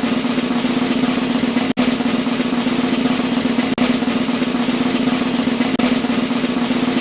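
Snare drum roll sound effect: a steady, sustained roll with tiny breaks about every two seconds.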